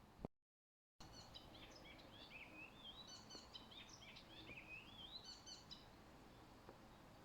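A brief pop and a second of dead silence, then a songbird sings one long varied phrase of rising and falling whistles and quick chips over faint background hiss.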